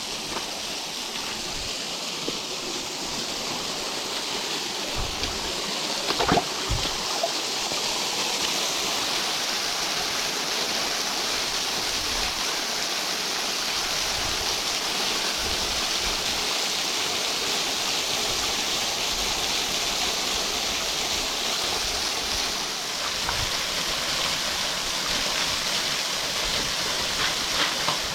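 Hagginton Waterfall: a small waterfall rushing and splashing steadily, growing louder over the first several seconds and then holding even. A few sharp knocks come about six seconds in.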